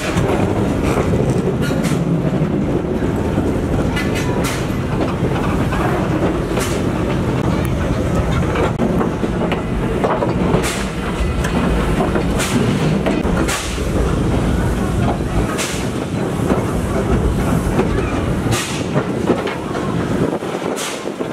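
Train carriage wheels rolling on the track: a steady rumble, with a sharp click every second or two as the wheels pass over rail joints.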